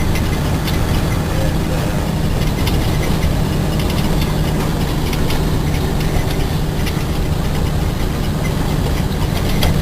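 Diesel engine of a cement tanker truck running steadily at low revs, heard from inside the cab, with a steady low hum that firms up a couple of seconds in.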